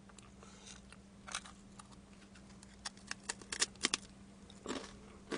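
Close-miked chewing of crispy fried boneless chicken: a few soft crackles, then a quick run of sharp crunches about three seconds in, over a faint steady hum.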